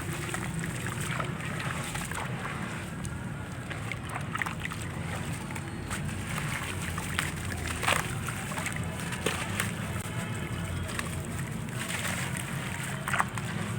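Handmade gritty crumble pieces being dipped in water, sloshing, with scattered crackles and a few sharper crunchy clicks over a steady low hum.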